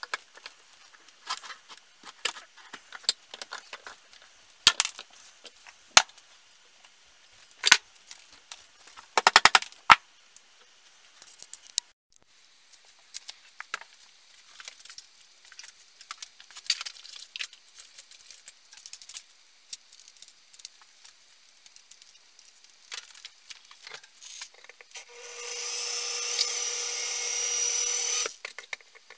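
Workshop handling of tools and parts: scattered clicks and knocks, a quick cluster of louder knocks about a third of the way in, then a small power tool runs steadily for about three seconds near the end.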